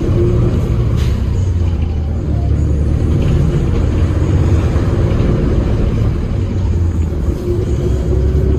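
Engine of a 2015 Hyundai New Super Aerocity CNG city bus running, a steady low rumble.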